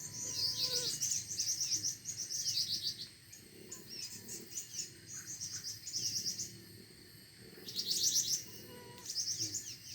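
Small songbirds chirping and singing in rapid, high trills, repeated in bunches. The loudest bunch comes about eight seconds in.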